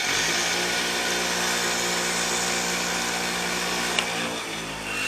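Handheld electric power tool motor running steadily at full speed, with one sharp tick about four seconds in and the speed sagging near the end.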